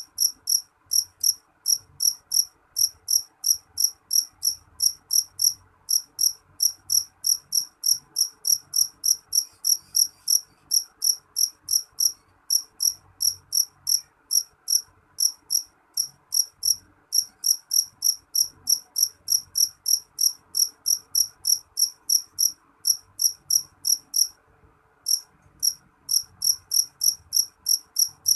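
Jangkrik jeliteng, a black field cricket, chirping loudly and shrilly in short, high, evenly spaced chirps, about three a second, with one brief break near the end.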